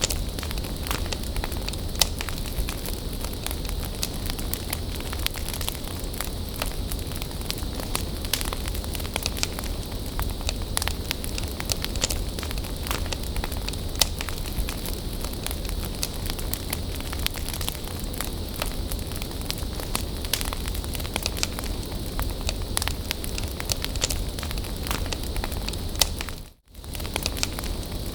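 Wood bonfire burning, with frequent sharp crackles and pops over a steady low rumble. The sound drops out briefly near the end.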